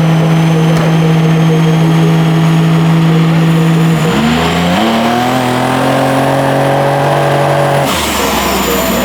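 Turbocharged V6 of a Buick Grand National running under load on a mobile chassis dyno: it holds a steady pitch, drops as it shifts about four seconds in, then climbs in pitch through the next gear until an abrupt change near the end.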